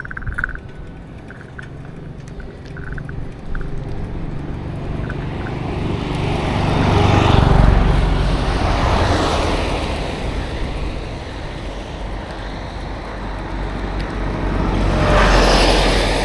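Motor vehicles passing on a road, with engine hum: one builds to a loud pass about eight seconds in and fades, and a second swells up near the end.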